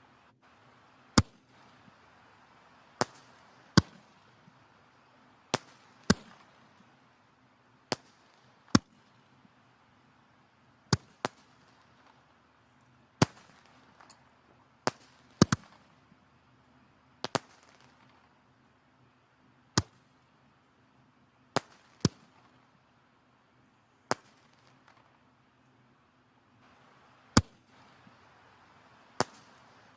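Burning firewood in a fireplace crackling, with sharp, loud pops at irregular intervals, roughly one every second or two, over a faint steady hiss of the flames.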